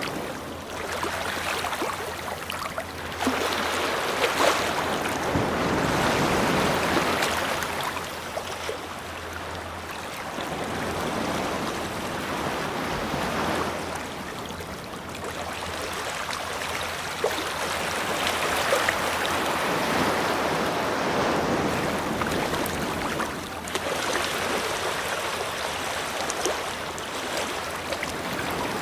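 Ocean waves breaking and washing on a shore, the rush swelling and easing every several seconds.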